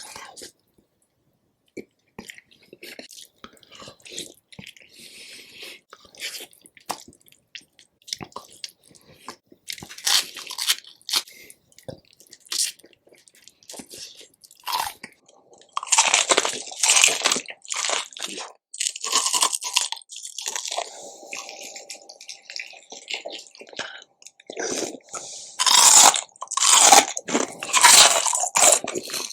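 Close-miked eating of rotisserie chicken: irregular crunching, biting and chewing, sparse at first, then louder and denser in the second half, loudest near the end.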